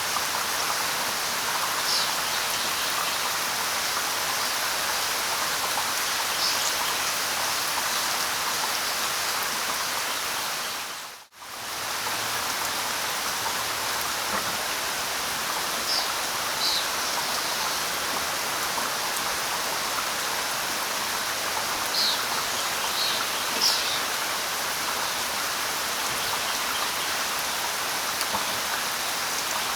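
Steady light rain hissing, with a few short, high bird chirps now and then. The sound briefly fades almost to nothing about a third of the way through, then comes straight back.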